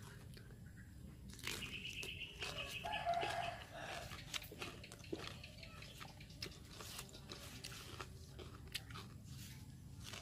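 Close-up chewing and crunching of raw lettuce and cucumber eaten with fried fish. A rooster crows from about a second and a half in to nearly four seconds in, the loudest sound.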